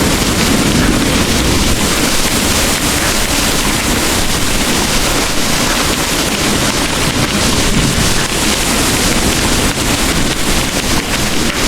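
Heavy rain pouring in a steady, dense hiss, with a continuous low rumble beneath it.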